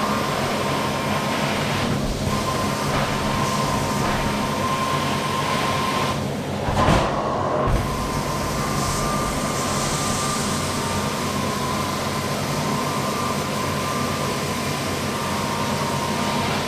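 Hot-water carpet extraction machine running as the cleaning wand pulls steam and water back out of the carpet: a steady, loud suction noise with a constant whistling tone. The suction noise breaks briefly about seven seconds in.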